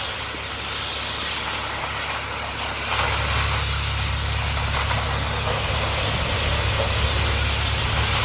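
Steady hissing roar of the burning CNG-powered garbage truck, growing louder about three seconds in, with a low rumble underneath.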